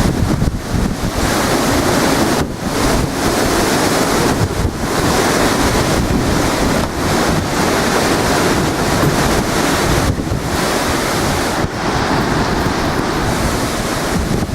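Hurricane-force wind gusting hard and buffeting the microphone, a loud continuous rush that eases briefly a few times.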